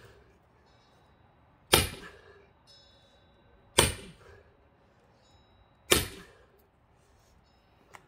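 Axe chopping into a thick pine log: three heavy strikes, about two seconds apart.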